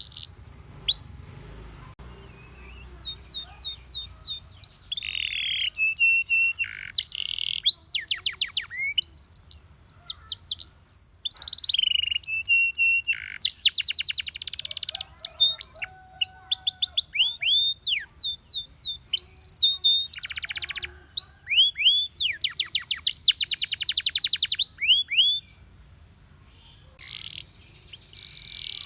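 Domestic canary singing: fast rolling trills of rapidly repeated high notes, broken by falling whistled sweeps and a few held notes, with short pauses between phrases. The song drops away briefly near the end.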